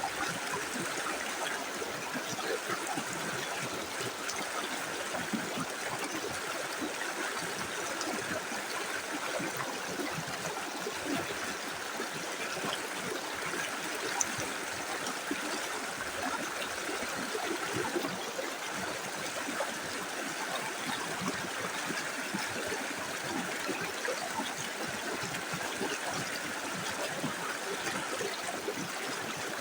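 Small river flowing steadily over stones, a continuous rushing and trickling with small splashes and gurgles.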